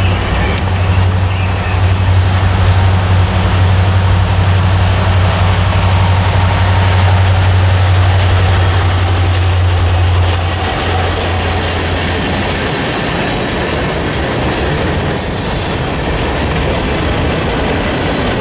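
Train passing: the locomotive's diesel engines give a steady low drone for about ten seconds, which then fades under the steady rolling of the rail cars on the track.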